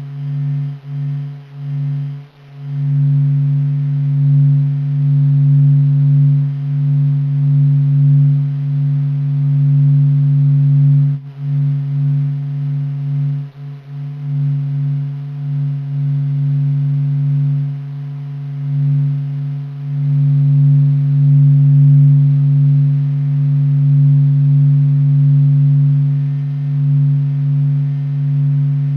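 Sonified sound of the sun's vibrations, a deep, steady humming drone with a fainter higher tone above it. It wavers slowly, with brief dips near the start and about eleven and fourteen seconds in.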